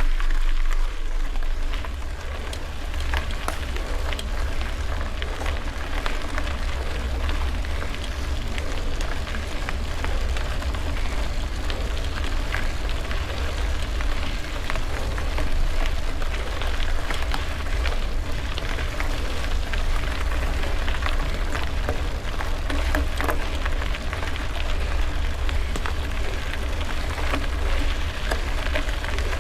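Wind rumbling on the microphone over a steady crackle of bicycle tyres rolling on gravel, with many small clicks and rattles.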